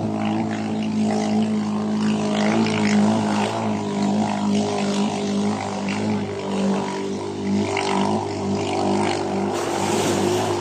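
Small boat engine running steadily at a constant pitch, with a rushing noise over it.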